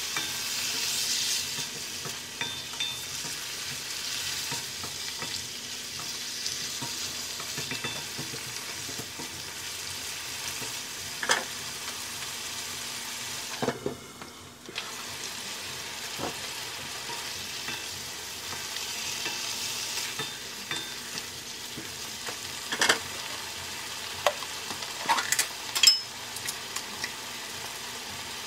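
Chicken pieces frying in oil in a nonstick wok, a steady sizzle while they are stirred with a plastic slotted spatula. Sharp knocks of the spatula and a glass lid on the pan come now and then, the loudest in a cluster near the end.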